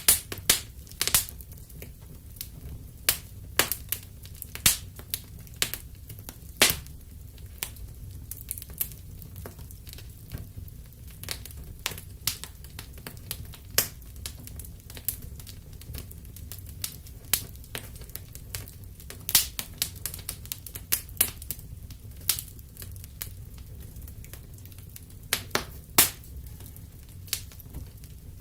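Wood fire crackling in a fireplace: irregular sharp pops and snaps, sometimes several in a second, over a low steady rumble of the flames.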